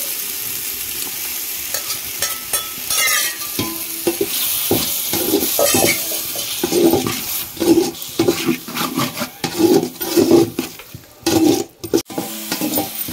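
Onion-tomato masala sizzling steadily in a large metal pot as curd goes in. From about four seconds in, a flat metal spatula stirs and scrapes the pot in repeated strokes, a little under two a second.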